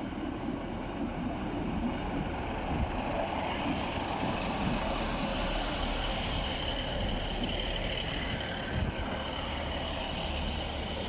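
A train running along the line: a steady rail noise with a high hiss from the wheels and rails that comes up a few seconds in.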